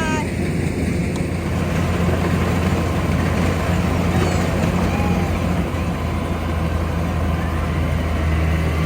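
Rice combine harvester engine running steadily.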